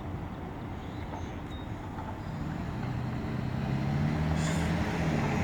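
Outdoor background noise with a vehicle's engine hum growing louder from about two seconds in.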